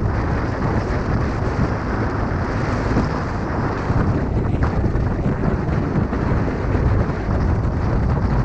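Steady, loud wind buffeting on the microphone while riding a motorcycle at road speed, a deep, rumbling noise that covers any engine sound.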